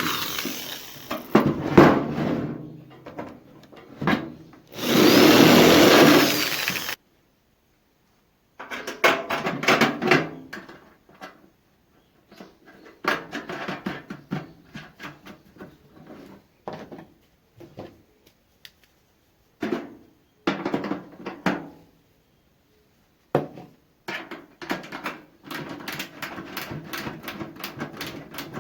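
A power tool runs in two loud bursts within the first seven seconds. Then come scattered taps, clicks and scraping of tools and sheet metal being handled.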